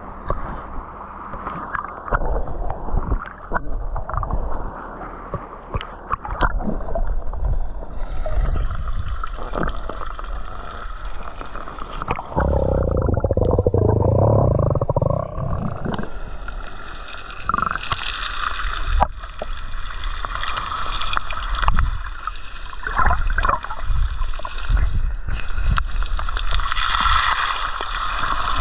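Seawater sloshing and gurgling close by, with irregular knocks and low rumble throughout and a denser rush of water a little before the middle.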